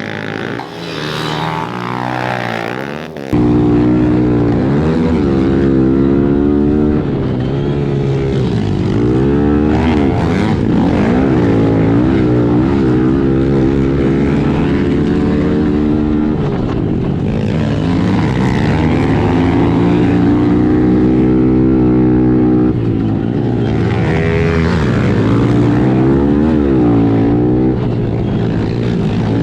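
Small four-stroke pit bike engines revving hard, their pitch climbing and dropping again and again. About three seconds in the sound cuts and becomes sharply louder.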